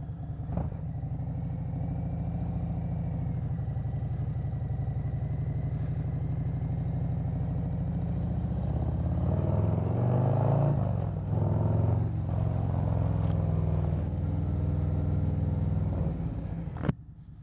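Harley-Davidson Road Glide's Milwaukee-Eight V-twin engine running under way, steady at first, with the pitch shifting up and down about ten seconds in. A sharp click just before the end, after which the engine sound drops off.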